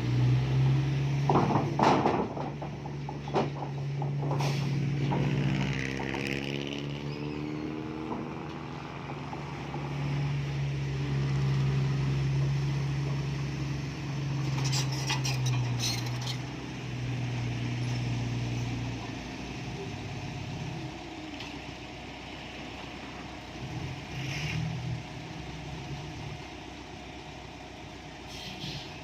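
Isuzu FXZ 360 dump truck's diesel engine running, revving up a few seconds in and easing off to a lower note after about nineteen seconds. A few sharp metal clanks come in the first four seconds, and short air hisses come about fifteen and twenty-four seconds in.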